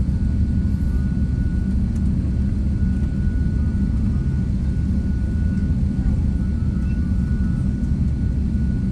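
Jet airliner engine noise: a steady low rumble with a thin, constant whine above it.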